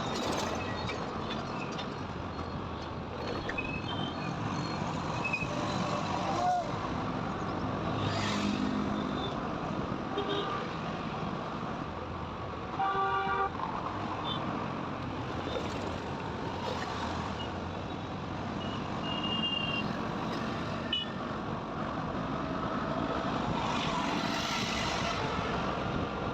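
Highway traffic heard from a moving motorcycle: a steady rush of engine and wind noise, with a vehicle horn honking once for about a second near the middle.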